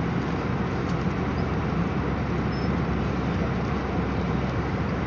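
Steady cabin rumble of an Airbus A319 airliner heard from a passenger seat: engine and airflow noise, even and unchanging.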